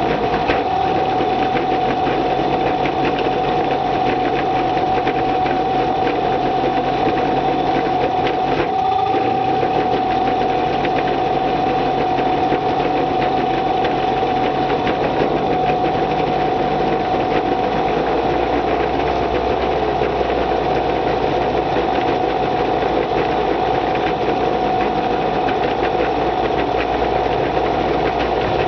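Small boat outboard motor running steadily on its first run after winter storage: a rapid, even rattle with a steady high whine.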